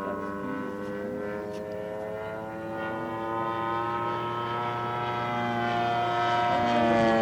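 Zenoah GT80 twin-cylinder gas engine of a large-scale RC FW-190 model airplane in flight, a steady propeller drone that grows louder over the second half as the plane comes closer.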